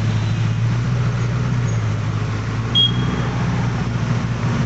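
A motor vehicle engine drones at a steady low pitch over road traffic noise. A short, high beep sounds once nearly three seconds in.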